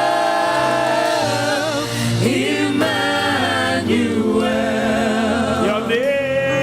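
Slow gospel worship singing: voices hold long notes, sliding between pitches now and then, over steady sustained accompaniment.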